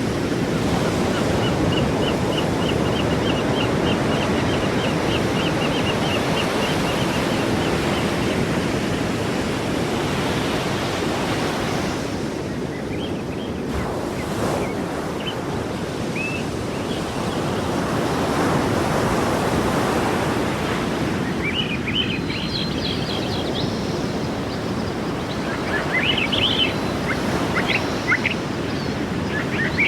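Sea surf washing in steadily. A rapid run of high chirps comes a second or so in and lasts several seconds, and more scattered high chirps come near the end.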